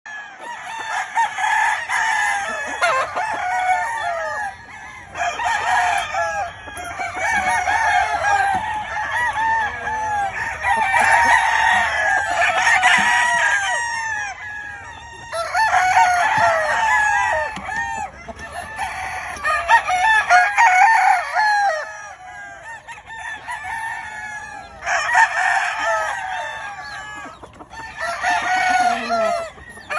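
Many roosters crowing over one another, with chickens clucking: a dense, continuous chorus that swells and eases in waves.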